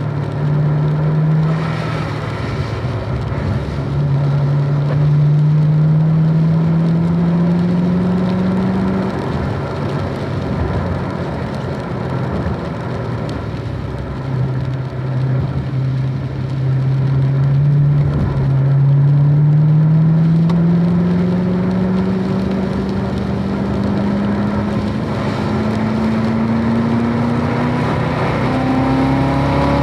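Car engine accelerating hard, its pitch climbing and dropping back at each gear change several times, over a steady hiss of tyres on a rain-soaked track.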